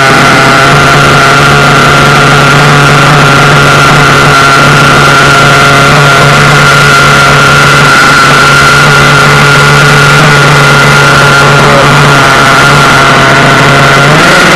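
The small nitro engine of an RC buggy idling steadily on its first run after a rebuild, warming up, with a high steady whine over a low drone.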